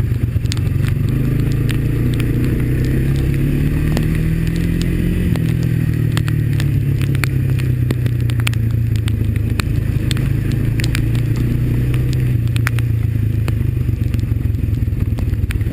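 Honda ATV's single-cylinder four-stroke engine running while under way, its pitch rising a little about four to five seconds in and then easing back. Scattered sharp clicks and cracks sound over the engine throughout.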